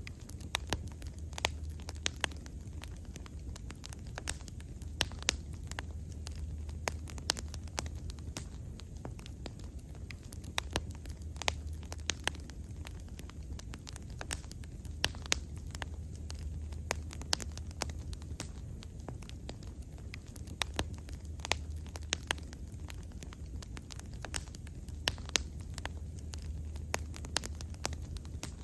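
Wood bonfire crackling, with sharp pops scattered irregularly over a low, steady rumble of the flames.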